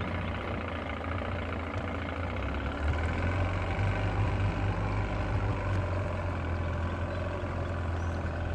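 Boat outboard motor running at a steady idle, just started after several tries.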